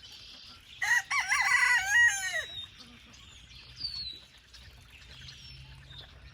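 A rooster crows once, a loud wavering call of about two seconds that drops in pitch at the end. Faint bird chirps follow.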